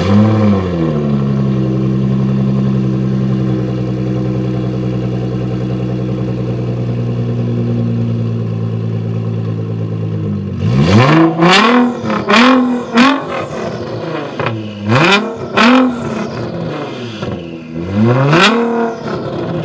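Nissan GT-R R35's twin-turbo V6 breathing through a catless Kline exhaust: it flares on start-up, settles to a steady, loud idle, then about ten seconds in is blipped in a string of quick, sharp revs that rise and fall back to idle.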